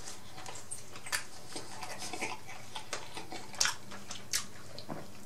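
A person chewing a mouthful of fried chicken sandwich, with scattered crisp mouth clicks and crunches about once a second.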